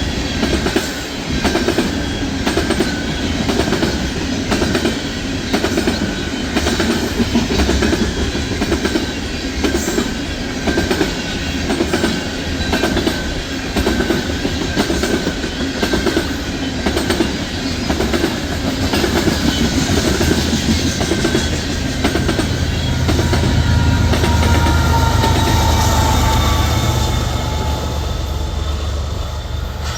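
Railroad cars rolling past, their wheels clacking over rail joints in a steady rhythm, with a thin whine slowly falling in pitch. A deeper rumble swells about three-quarters of the way through.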